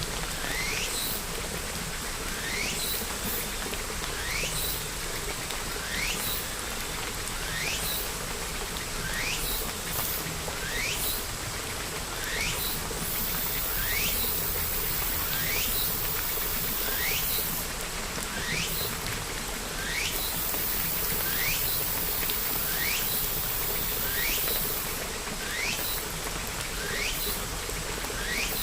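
Steady hiss of rain with a bird repeating one short rising call about every second and a half.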